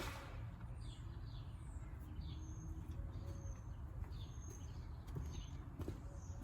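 Birds chirping: a string of short, high, falling chirps with a few brief whistled notes, over a low steady rumble.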